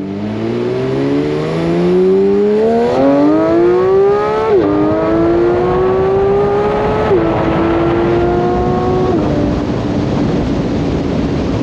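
Porsche 992 GT3's 4.0-litre naturally aspirated flat-six accelerating hard, its pitch climbing through the gears with three quick upshifts, about four and a half, seven and nine seconds in, then holding steady. Strong wind and road noise underneath.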